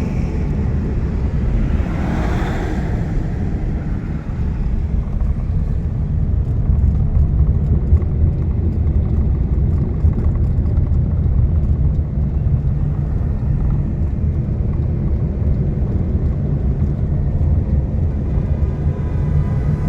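Steady low road and engine rumble of a vehicle travelling on a highway, with a brief louder swell about two seconds in.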